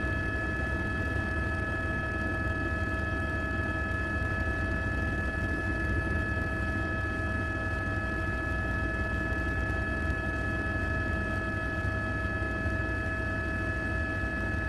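Quadcopter drone's motors and propellers hovering: a steady, even hum of several fixed tones over a low rumble, without change in pitch.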